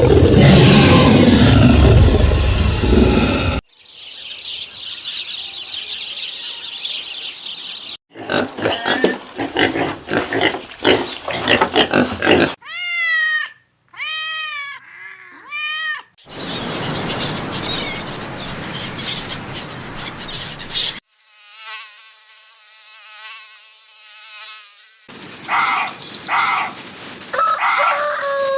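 A run of separate animal sound recordings cut hard one after another: a loud call at the start, then a long hiss, a run of clicks, a series of arched rising-and-falling chirps, a stretch of noise and a steady buzzing tone.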